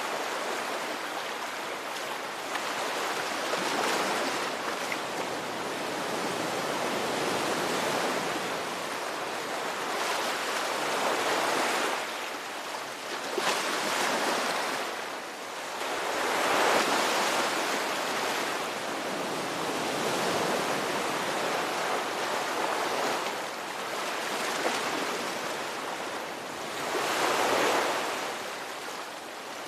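Ocean surf: waves breaking and washing ashore without a break, swelling and easing every several seconds, with the loudest wave a little past halfway.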